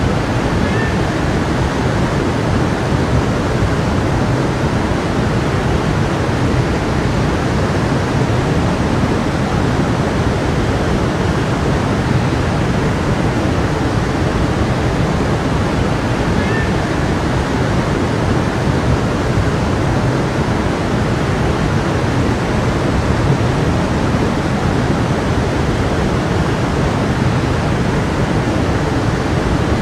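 A stream flowing, a steady, even rush of running water.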